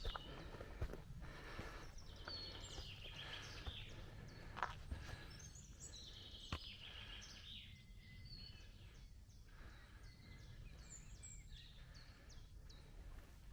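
Several songbirds chirping and trilling in forest over a steady low rumble of outdoor background noise, with a few short sharp taps in between.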